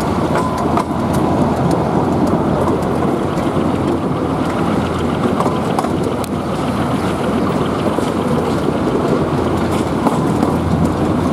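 Narrow-gauge train under way at low speed: a steady locomotive engine drone and wheel noise, with scattered clicks from the wheels on the rail joints, heard from beside the moving carriage.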